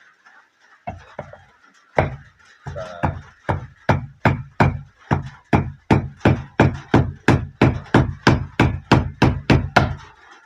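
Heavy, sharp blows struck on a hard surface in food preparation. A few uneven blows come first, then a steady run of about three a second that stops just before the end.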